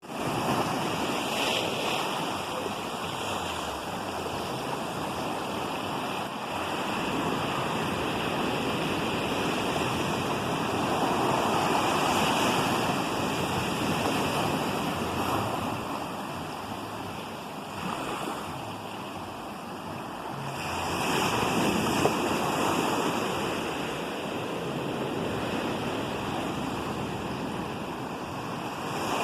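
Ocean surf: waves breaking and washing ashore in a continuous rush that swells and ebbs every several seconds.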